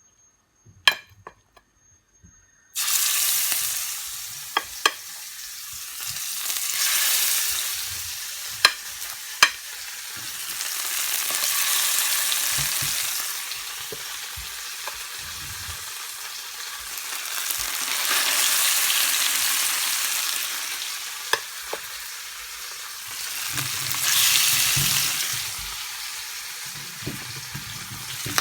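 Seasoned sea bass frying in hot oil in a pan: a loud sizzle starts suddenly about three seconds in and swells and eases several times, with a few sharp pops along the way.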